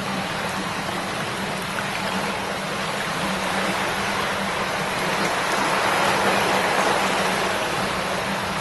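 Shallow river water babbling steadily over stones, swelling a little about six seconds in.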